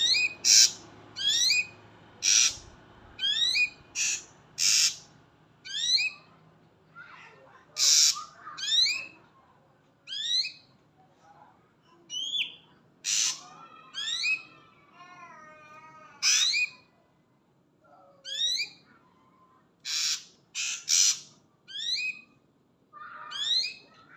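Ashy drongo calling: sharp rising whistles alternating with short harsh, scratchy notes, about one call a second. A wavering, warbled phrase comes about halfway through.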